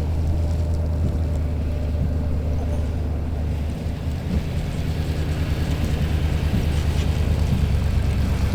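A motor running steadily with a low, even hum that dips briefly about four seconds in.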